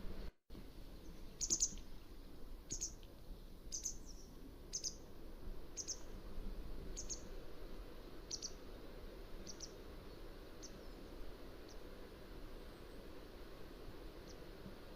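Mountain wagtail calling: a series of short, high, sharp notes about one a second, fading away after about ten seconds, with faint notes again near the end. The sound drops out for a moment just after the start.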